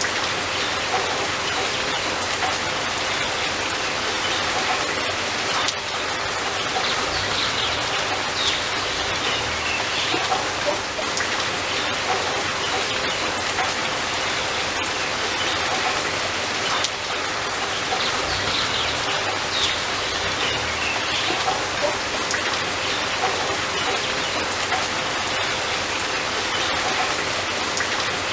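Steady, heavy rain falling, with scattered drops ticking sharply on a surface.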